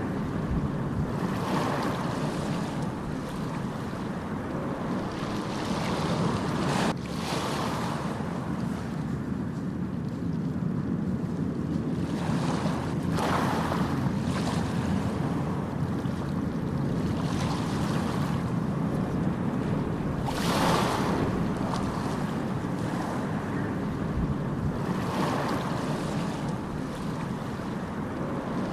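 Ocean surf: a continuous low rush of waves with breakers swelling up every few seconds, the loudest about two-thirds of the way in.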